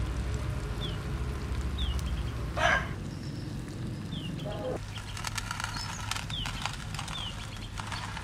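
A small bird repeating a short, falling chirp every second or two over a steady low rumble. There is one brief, loud noisy burst about two and a half seconds in, and faint clicks in the second half.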